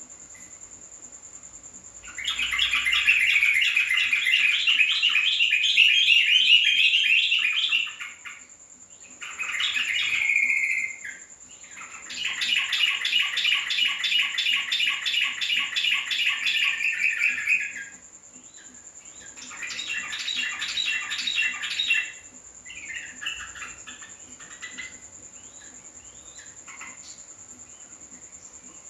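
Yellow-vented bulbul (trucukan) singing in long runs of fast chattering notes. There are four main bouts a few seconds each with short pauses between, then a weaker short burst.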